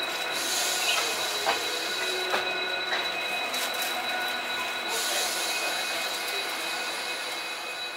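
Passenger train running slowly, heard from on board, with a steady high-pitched squeal from the wheels on the rails and a few sharp clicks in the first three seconds. A high hiss runs alongside and cuts off about five seconds in.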